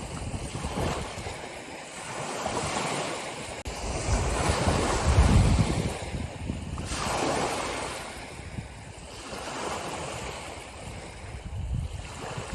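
Ocean waves breaking and washing on a shore in slow surges, each swell rising and falling over a few seconds, the biggest about five seconds in.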